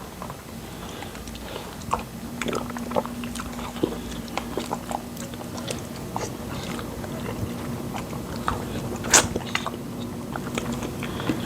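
Close-miked eating of fufu and pepper soup: chewing with many small wet mouth clicks and smacks, over a faint steady hum.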